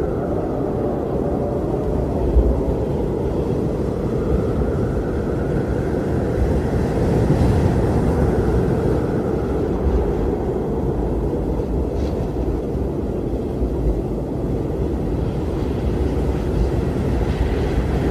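Strong blizzard wind blowing steadily with a deep rumble, and a faint howl that swells and fades in slow gusts.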